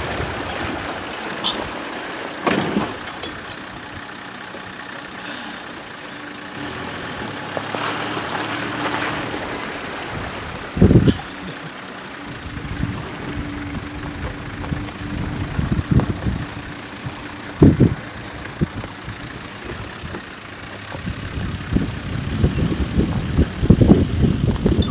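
An engine idling steadily, with a few sharp clunks and knocks. Wind starts buffeting the microphone near the end.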